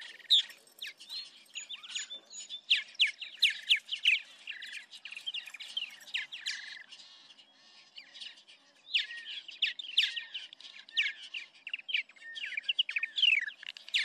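Birds chirping and singing: many rapid, high, short notes, most of them falling in pitch, with a brief lull a little past halfway.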